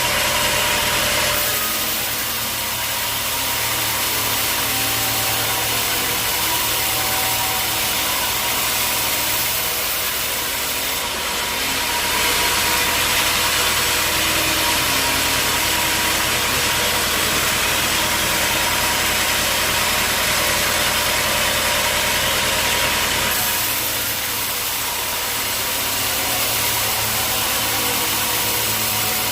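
An engine-driven sawmill running: a steady engine note under a strong hiss. The hiss grows stronger about twelve seconds in and eases again near the end.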